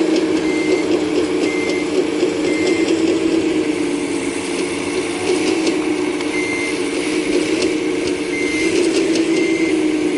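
Full-size excavator's engine running steadily, with its travel alarm beeping about once a second in two runs, the second starting about six seconds in, over light mechanical clatter.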